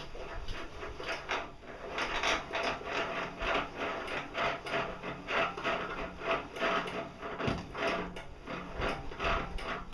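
Radial arm saw's elevation crank being turned by hand, the column gear raising the arm with a rhythmic scraping click, about two to three strokes a second. The gear has just been pinned to its rod, so it drives the arm without slipping.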